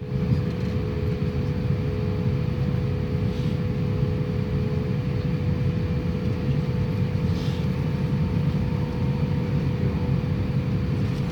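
Airbus A350's Rolls-Royce Trent XWB jet engines running as a steady low rumble, with a steady hum held throughout.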